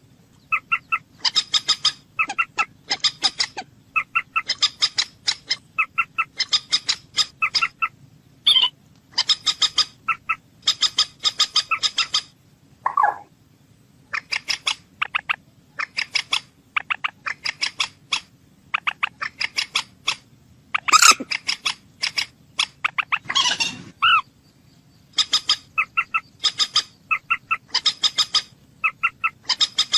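A bird calling in repeated bursts of rapid, clicking chatter, each burst about a second long, with a few lower drawn-out calls in between.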